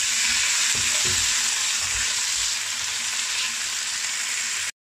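Chicken pieces sizzling in hot oil in a nonstick wok as they are stirred with a spatula. There is a steady frying hiss with a few soft knocks of the spatula in the first second, and it cuts off suddenly just before the end.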